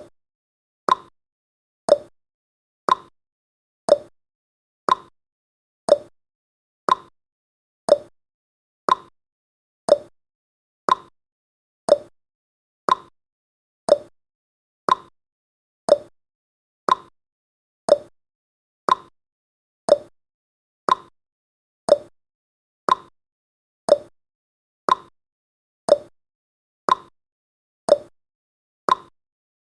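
Countdown timer's ticking sound effect: one short, sharp tick each second, each fading away quickly, in an even unbroken rhythm.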